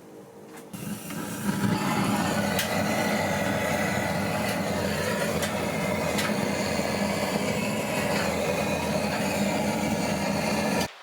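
A loud, steady rushing noise, like a running motor or burner. It builds up about a second in, holds steady with a few faint clicks, and cuts off abruptly near the end.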